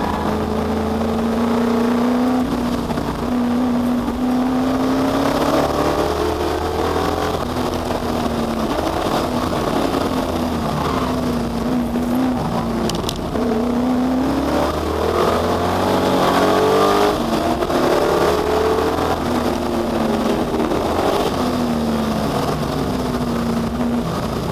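Ford Capri Perana V8 race car engine running hard on track, its note repeatedly climbing under acceleration and dropping on gear changes and braking.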